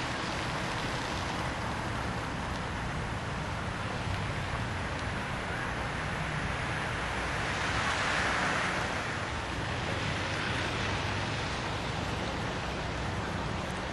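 Storm wind blowing hard in a steady roar, swelling in a stronger gust about eight seconds in.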